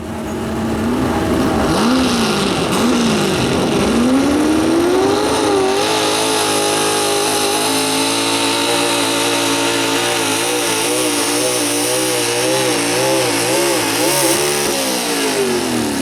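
Super stock 4x4 pulling truck's engine revving in short blips, then climbing to high revs and holding there for about nine seconds with a wavering pitch as it pulls, before the revs drop near the end.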